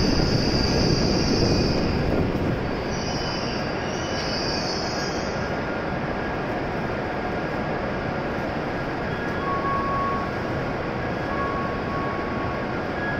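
E7-series Shinkansen train braking to a stop at the platform, with a high brake squeal that fades out about five seconds in, leaving a steady rumble.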